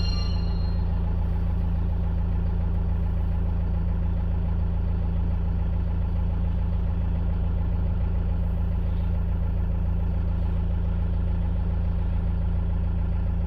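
Toyota Toyoace truck's Hino N04C four-cylinder diesel engine idling steadily after start-up.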